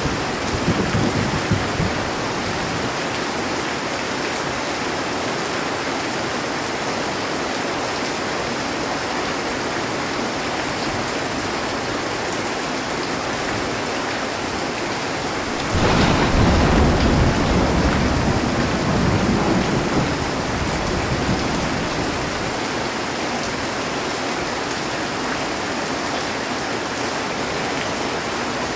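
Heavy rain falling steadily on a metal roof. A low rumble of thunder dies away in the first couple of seconds, and about halfway through a thunderclap breaks suddenly and rumbles off over several seconds.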